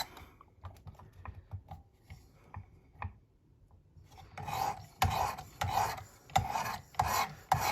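Light clicks and taps, then, from about four seconds in, a 320-grit diamond abrasive rod rasping back and forth along a CruWear steel knife edge in a Work Sharp Precision Adjust, about two strokes a second. The rod is grinding a completely new edge at a freshly lowered angle.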